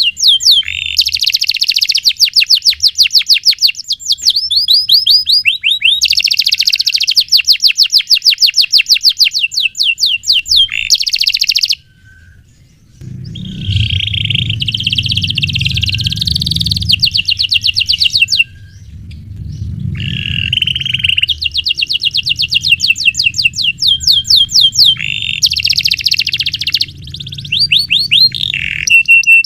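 Domestic canary singing long rolled trills of rapid, evenly repeated notes in successive phrases, with a brief pause about twelve seconds in. A low rumble runs underneath in the second half.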